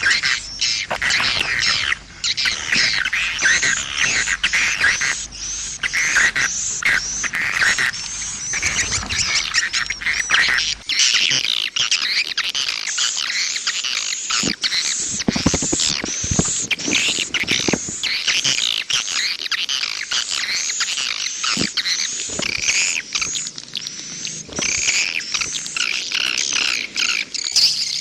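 Edible-nest swiftlet calls: a dense chorus of rapid, high twittering chirps overlapping without pause. This is a swiftlet-house lure call ('suara panggil') played to draw swiftlets in to roost and nest.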